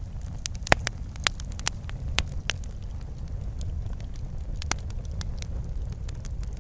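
Wood fire in a fireplace crackling, with irregular sharp pops over a steady low rumble of the flames. The loudest pop comes about three-quarters of a second in.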